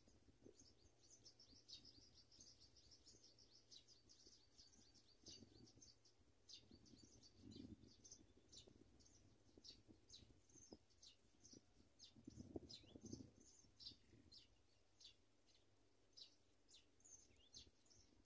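Faint, rapid high-pitched bird chirps, many short notes in quick succession, with low rustling or thumping twice along the way.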